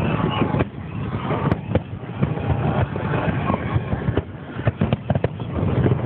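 Fireworks going off: irregular sharp bangs and cracks, many to the second, over a steady rumble.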